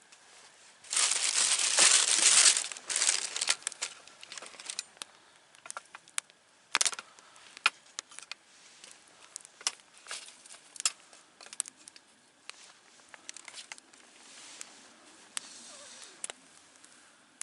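Campfire crackling, with irregular sharp pops. About a second in there is a louder crinkling rustle that lasts a second and a half.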